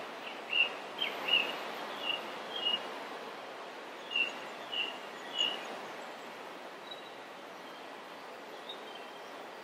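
A bird chirping over a steady faint hiss: a run of short, high chirps about two a second, a pause, then three more about halfway through.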